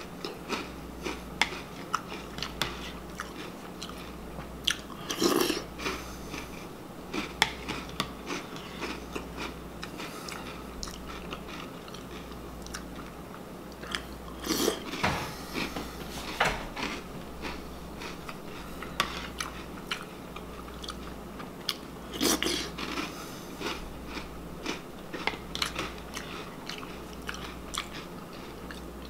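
A person crunching and chewing mouthfuls of Reese's Puffs cereal close to the microphone, with louder bites every several seconds and a low steady hum underneath.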